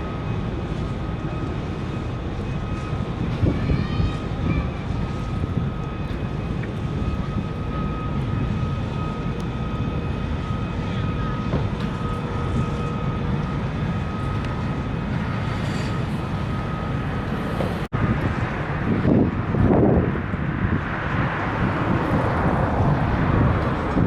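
Steady low rumble of a large ferry's engines and machinery, with a constant high whine over it. It breaks off abruptly about three-quarters of the way through, giving way to rushing wind and water noise.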